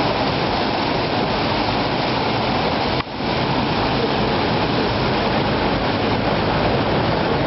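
Steady rushing noise of water and wind aboard a moving motor ship, with a brief dropout about three seconds in.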